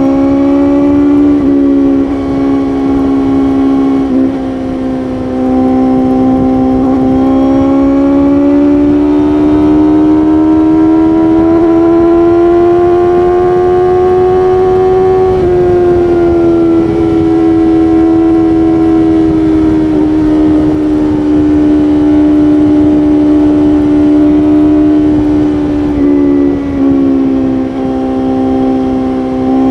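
BMW S1000RR inline-four engine running at steady high revs at highway speed, over a constant rush of wind noise. The engine pitch climbs slowly for about ten seconds, drops suddenly about halfway through, then holds steady with a few brief dips.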